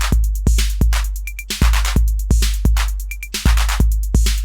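Acidlab Miami drum machine, a Roland TR-808 clone, playing a beat: a deep, long-decaying 808-style bass drum about every 1.8 seconds with hi-hats ticking in between and short high blips.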